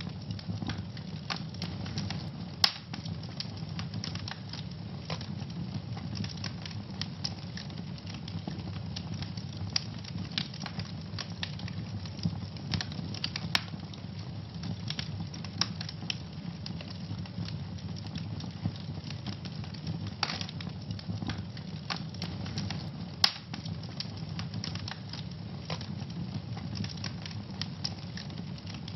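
Wood fire burning in a fireplace: a steady low rumble of flames with constant irregular crackling and a few louder sharp pops.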